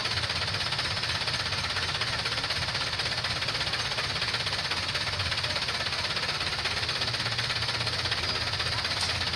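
Toyota Dyna dump truck's diesel engine running with a rapid, steady knocking, over a steady hiss.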